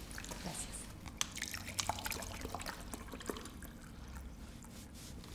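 Orange juice poured from a bottle into drinking glasses, with a scatter of light clicks.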